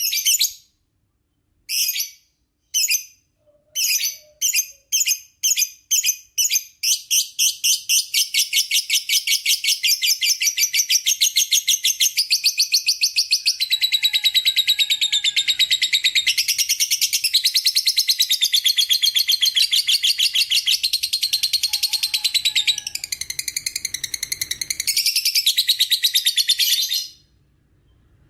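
Lovebird's long ngekek chatter: sharp high chirps, spaced out at first, come faster and faster until they run together into one continuous rapid trill lasting about twenty seconds, then it stops suddenly near the end.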